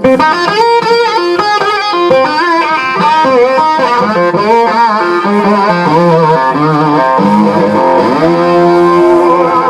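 Live blues-rock band with a lead electric guitar playing a fast run of single notes between vocal lines. About eight seconds in, the guitar bends a note upward and holds it.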